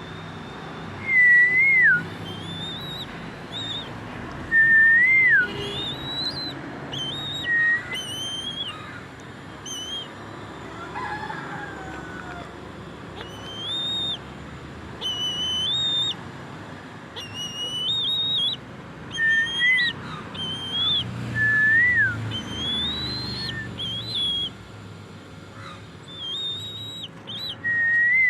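Bird calls: a loud whistled note that rises then falls recurs every few seconds, with many shorter, higher whistled notes repeating between them.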